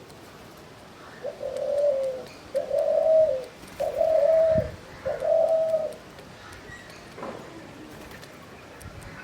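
A dove cooing: four low, drawn-out coos in a row, each just under a second long, then a pause.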